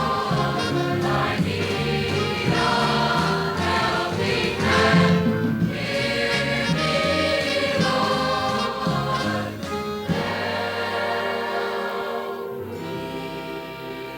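A choir singing a gospel song over instrumental backing; about ten seconds in the singing gives way to a held chord that slowly fades.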